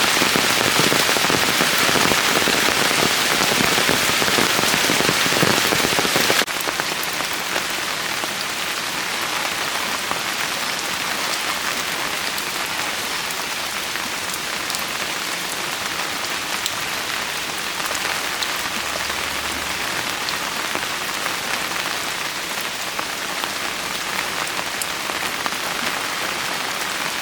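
Steady rain falling, an even hiss with scattered drop ticks; it drops suddenly to a lighter, quieter patter about six seconds in.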